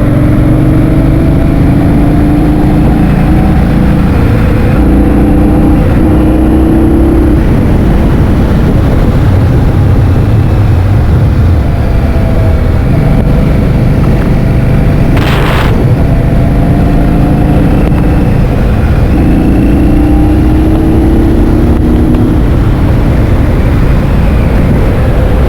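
Heavy wind buffeting on the microphone of a riding scooter. Under it, a motor's hum comes and goes, climbing slightly in pitch each time, with one short sharp noise about fifteen seconds in.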